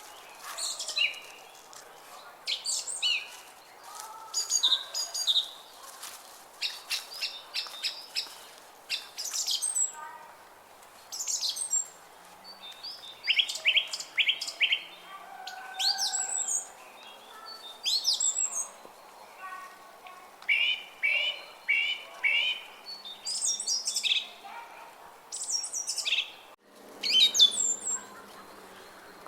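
Several songbirds singing together: short bright chirps, whistled notes and quick trills of repeated notes, overlapping without pause.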